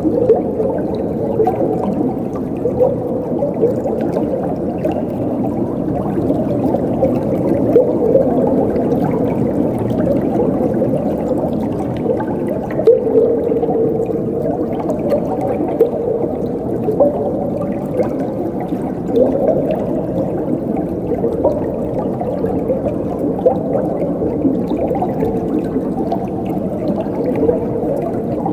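Running water gurgling and splashing steadily, low-pitched, with many small irregular bubbling blips.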